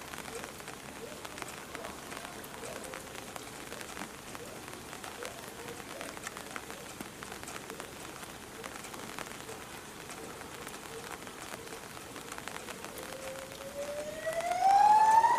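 Steady rain falling, a constant hiss with scattered drop ticks. Near the end a pitched sound rises slowly in pitch and grows to be the loudest thing.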